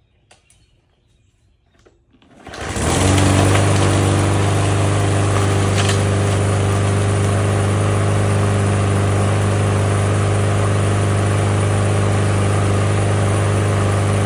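Lawnmower's small engine starting about two seconds in and then running steadily, after its dirty air filter was replaced and its clogged breather cleaned out.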